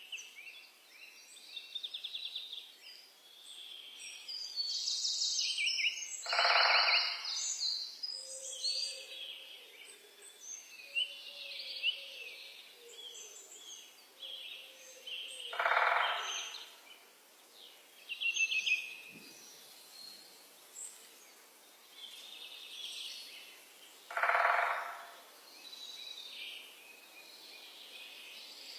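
Several songbirds chirping and trilling at once, in a busy high-pitched chorus. Three times, roughly every eight to nine seconds, a louder, harsher call about a second long stands out above it.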